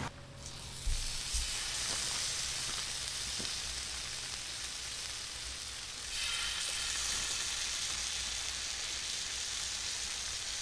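Food frying on a hot cooking surface: a steady sizzle that grows louder about six seconds in, with two low knocks about a second in.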